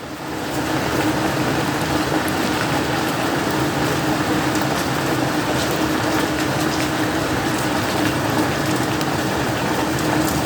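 Heavy rain mixed with hail pouring down: a steady dense hiss with scattered sharp taps of stones and drops, over a faint steady hum.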